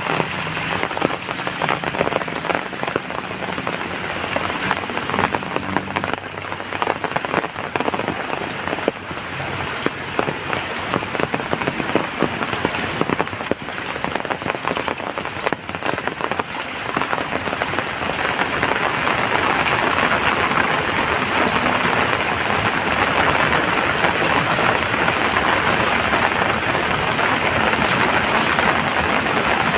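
Rain falling steadily, with many separate drops ticking, growing louder and denser a little past halfway.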